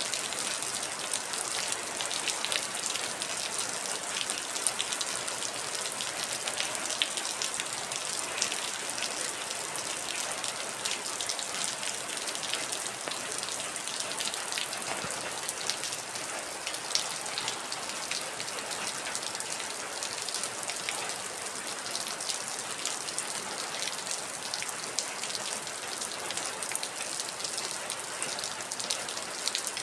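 Heavy rain falling steadily, a continuous hiss with the patter of many individual drops striking surfaces.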